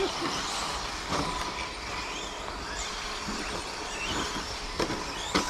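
Electric 1:10 RC short course trucks racing round the track: several motors whining, rising and falling in pitch as they accelerate and brake, over tyre noise. There is a sharp knock near the end.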